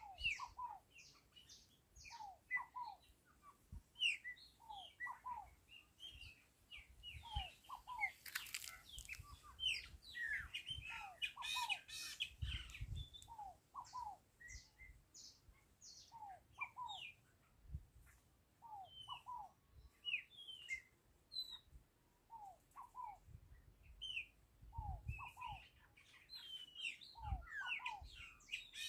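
Several birds chirping and calling, with many short falling notes overlapping throughout and a brief fast trill about twelve seconds in. A few low bumps sound underneath now and then.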